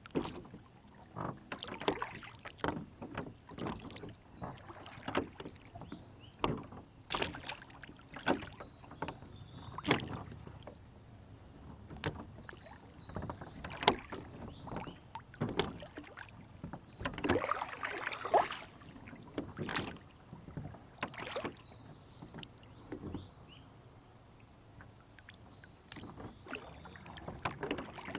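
A rowboat on a lake: water slapping and lapping against the hull, with irregular knocks and clunks from the boat and its oars. A splashier stretch comes just past the middle, and it calms for a few seconds near the end.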